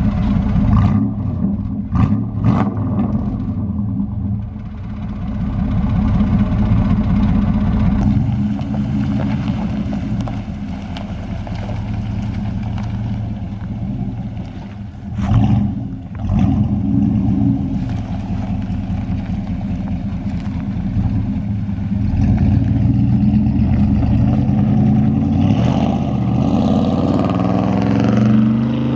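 A 1996 GMC Sierra pickup running through a Flowmaster exhaust: a low-pitched idle, blipped twice a couple of seconds in and revved again about halfway, then held at higher revs with the pitch rising and falling near the end.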